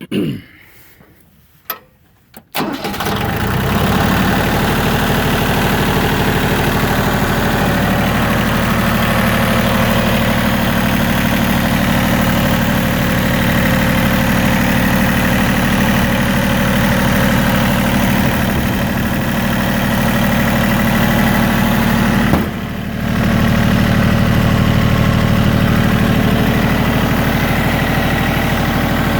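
Yanmar YM1820D's three-cylinder diesel engine catching about two and a half seconds in and then running steadily, evenly and without missing or misfiring, with one brief dip in level about two-thirds through.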